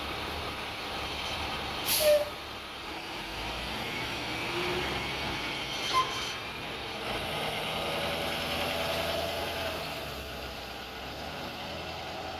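Truck engine running steadily at a trash transfer station, with a short, loud air hiss about two seconds in and a brief click near six seconds.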